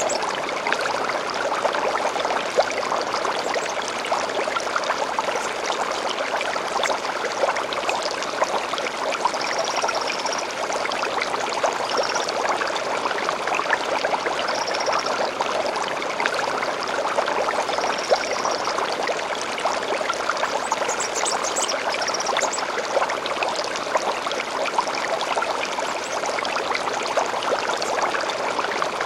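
A small stream babbling steadily over rocks, with short, high bird calls now and then, about half a dozen of them.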